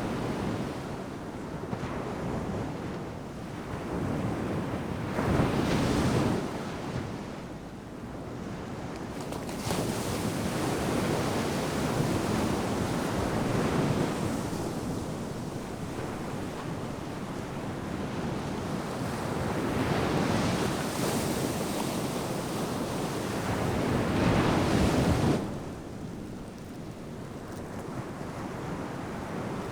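Ocean surf breaking on a sandy beach: a continuous wash of waves that swells and eases every few seconds, with a louder break around 6 s and another near 25 s, and some wind on the microphone.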